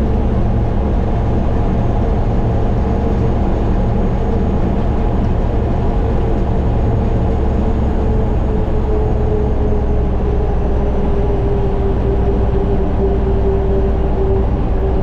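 Heavy truck engine running steadily under load, with a humming tone that drops slightly in pitch about two thirds of the way through.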